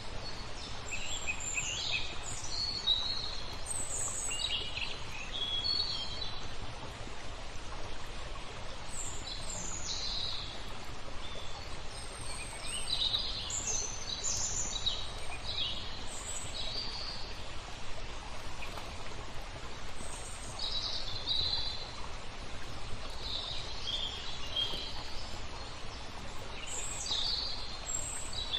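Songbirds chirping and twittering in short, repeated phrases over a steady wash of flowing water.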